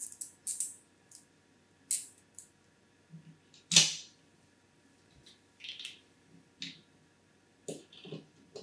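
Clicks and rustles of hands fitting 120 mm PC fans to an AIO liquid-cooler radiator, plastic fan frames and screws being handled, with one sharp click about four seconds in.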